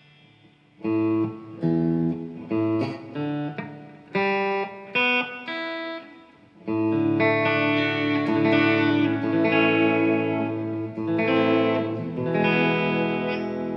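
Electric guitar played with a pick through a Fender '65 Deluxe Reverb amp, as a sound check after the pickups were adjusted. First comes a run of short chords, each cut off sharply; from about seven seconds in, strummed chords are left ringing.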